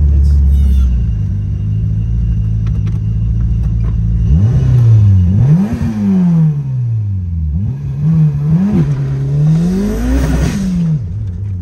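Modified 1998 Eagle Talon TSI AWD's turbocharged 4G63 inline-four with a big single turbo, running steadily at first, then revving up and back down about four seconds in, giving a couple of short blips, and rising and falling once more near the end.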